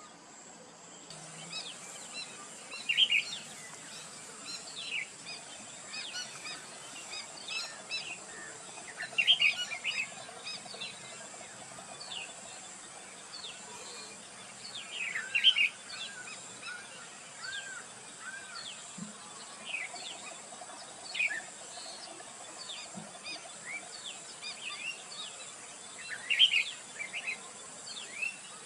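Wild birds chirping and calling in repeated short, sharp notes, with louder bursts of calling every several seconds, over a steady high-pitched insect drone.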